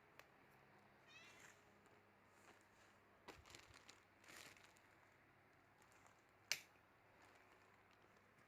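Faint, high-pitched mewing of a kitten about a second in, with scattered light clicks and rustles; a single sharp click about six and a half seconds in is the loudest sound.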